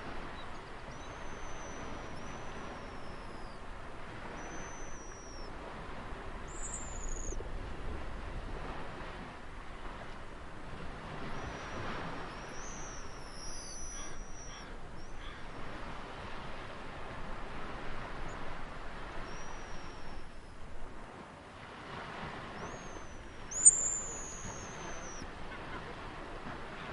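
Steady wash of ocean surf with small birds calling over it: a series of short, high, thin whistles that slide downward, one sharp and much louder call near the end.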